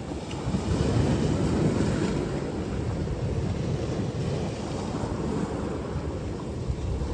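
Low, unsteady rumbling noise of wind buffeting the microphone.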